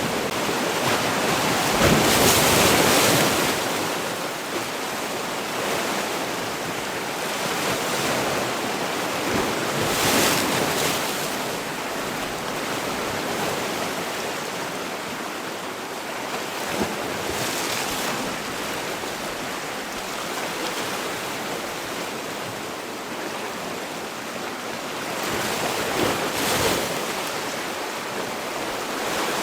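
Sea waves breaking and washing on a shore, a steady rush of surf that swells as bigger waves break, about 2 seconds in, near 10 seconds, near 17 seconds and near 26 seconds.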